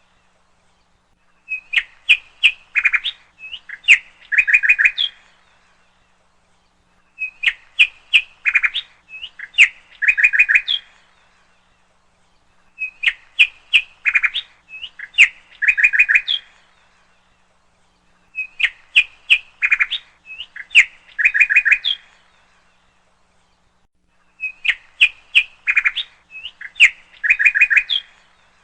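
Bird song: a phrase of sharp chirps, clicks and short trills that repeats five times, about every five and a half seconds, identical each time, with silence in between.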